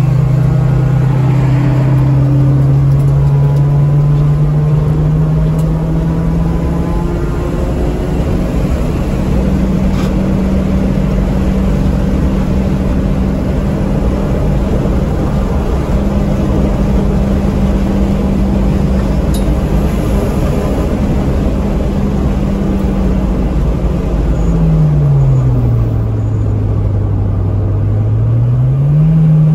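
Ford Focus engine heard from inside the cabin, pulling hard under throttle with its note climbing slowly and then holding high, over steady road and wind noise. Late on the note drops sharply and stays low for a couple of seconds as the car slows for a corner, then climbs again as it accelerates out.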